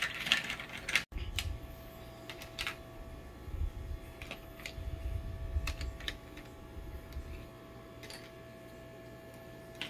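Light, irregular clicks and taps of plastic toy tongs and toy fries against a plastic toy pan and plate, over a low handling rumble. A faint steady hum runs under it from about a second in.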